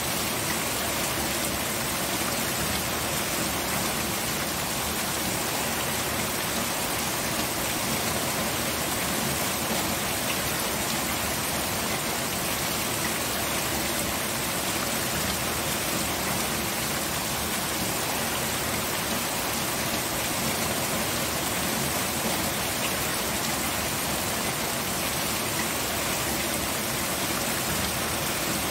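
Steady rain falling, a dense even hiss of drops with no pauses or changes.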